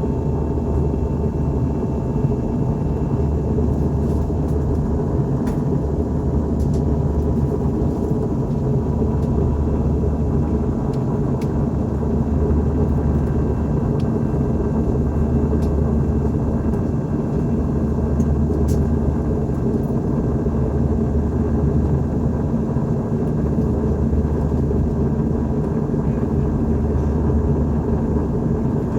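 Steady low cabin rumble of an Airbus A321-211 in flight, the engines and rushing air heard from a forward seat, with a few faint steady tones over it.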